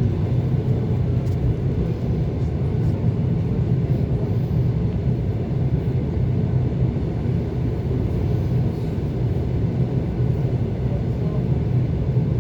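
ET2 electric multiple unit running steadily along the track between stations, heard on board as a continuous low rumble.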